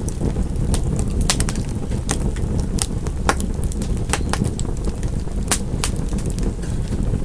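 Wood fire crackling: a steady low rumble of the flames with frequent sharp, irregular pops and snaps.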